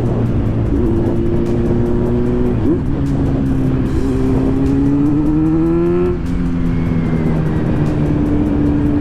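Kawasaki Z900's 948 cc inline-four engine running under way, with wind rush. The engine note shifts about three seconds in, rises steadily as the bike accelerates, then drops about six seconds in and holds steady.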